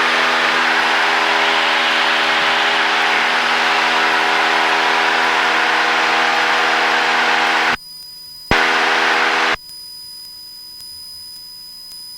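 Cessna 172 engine and propeller running steadily, heard as cabin noise through the headset intercom. About eight seconds in the noise cuts off abruptly, returns for about a second, then cuts off again, leaving only a faint steady electronic tone.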